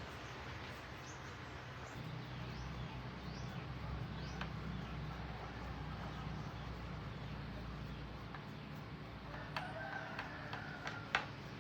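A rooster crowing once near the end, lasting about a second and a half, over a low steady hum, with a sharp click just after the crow.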